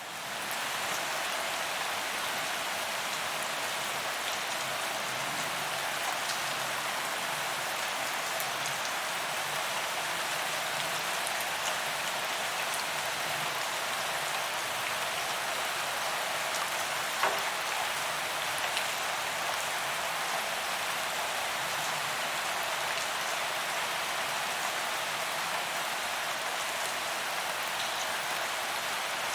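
Steady heavy rain falling on a paved sidewalk, an even hiss of drops hitting the pavement with scattered individual drop ticks and one sharper tap about 17 seconds in. It fades in at the very start.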